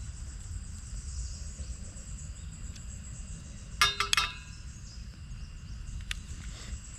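A quick cluster of three or four sharp metallic clinks about four seconds in, and one more a couple of seconds later: metal cookware being handled on a single-burner propane stove. Under them runs a steady low rumble, with insects chirping faintly.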